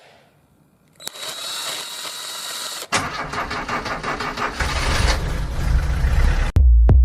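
A car engine being started: a steady whirring from about a second in, catching near three seconds and then running and building. Near the end, electronic music with a heavy regular beat comes in.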